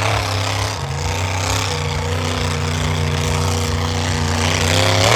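Monster truck engine running at a steady, fairly low speed, then revving up near the end.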